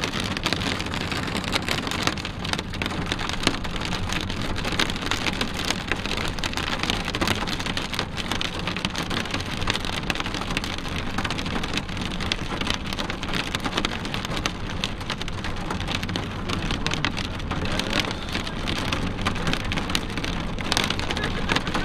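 Rain pattering on a moving car's windshield and roof, a dense run of small drop hits over the steady road and engine rumble inside the cabin.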